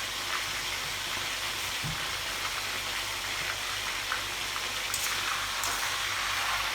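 Fish-sauce-marinated pork frying in hot oil: a steady sizzle with a few faint crackles, growing slightly louder near the end.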